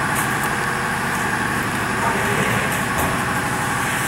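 Semi truck's diesel engine idling steadily with an even, rapid low pulsing.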